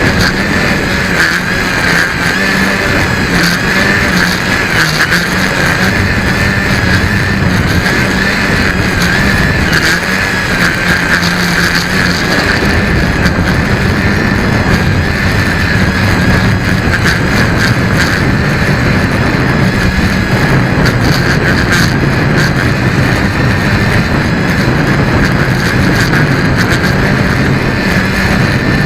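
Tricopter's electric motors and propellers running steadily with a high whine that wavers slightly in pitch, mixed with wind rushing and crackling over the microphone.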